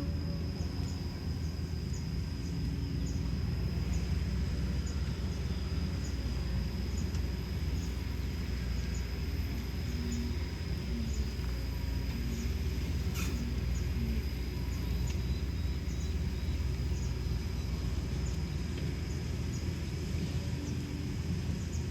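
Kobelco SK210LC excavator's Hino J05E-TG four-cylinder turbo-diesel running steadily with a low, even rumble. A faint high tick repeats about once a second over it.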